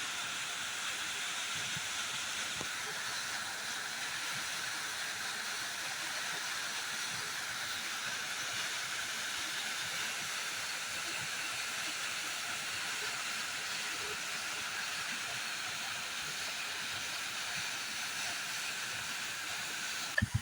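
Big waterfall: a steady, unbroken rush of falling water.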